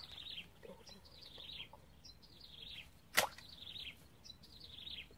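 A bird calling over and over in short descending chirps, with a single sharp crack about three seconds in.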